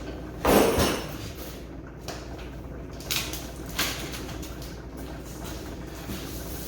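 Generator parts and packaging being handled: a loud scrape or clunk about half a second in, then a few lighter knocks and rustles.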